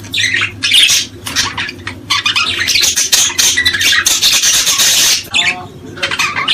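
A group of small birds calling loudly and almost without a break: dense, rapid, high-pitched calls, with a steady low hum beneath.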